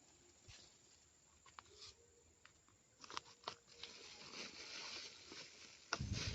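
Faint rustling and crinkling with scattered sharp clicks, growing louder about halfway through, then a low bump on the microphone just before the end.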